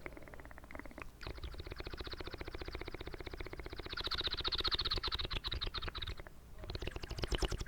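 Close-miked wet mouth sounds: a fast, even run of fine clicks and crackles from about a second in, breaking off briefly near the end before starting again.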